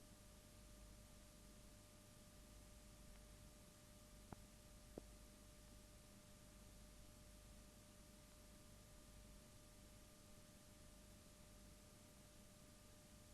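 Near silence: a faint steady hiss with a thin steady tone under it, and two tiny clicks about four and five seconds in.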